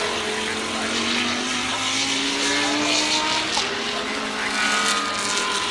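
GT3 race car engines running at high revs, several at once, their pitch rising slowly as they accelerate.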